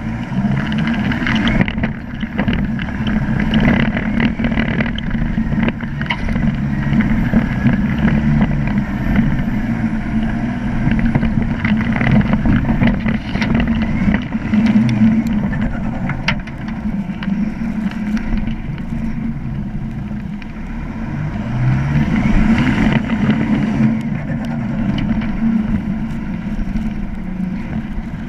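Off-road 4x4 engine running at low revs while driving slowly over a rough dirt track. Its note rises and falls with the throttle, with a noticeable swell about two-thirds of the way in, and there are frequent knocks and rattles over the bumps.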